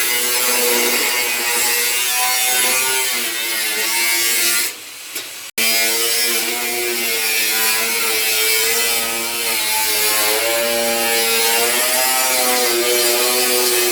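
A small motor-driven tool running with a wavering pitch and a harsh high hiss, cut off briefly about five seconds in.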